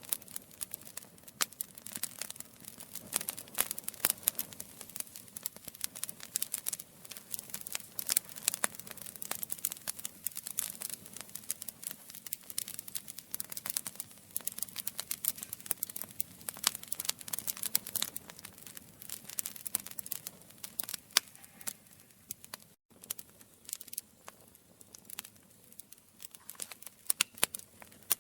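Wood campfire crackling: dense, irregular sharp pops and snaps over a faint steady hiss of the burning fire, broken by a split-second dropout about three quarters of the way through.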